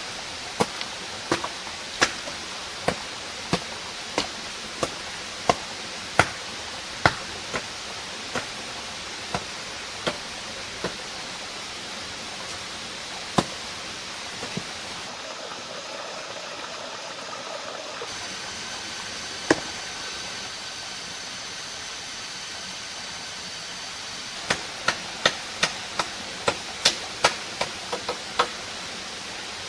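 Chopping wood with a blade: a run of sharp, evenly spaced blows, then a pause with a single strike or two, then a quicker run of about ten blows near the end, over a steady hiss of running water or forest background.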